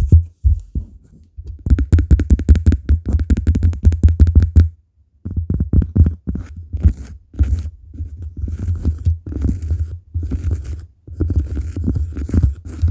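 Rapid tapping and scratching on cork, with heavy low thuds under the taps. The tapping stops briefly about five seconds in, and scratching joins the taps in the second half.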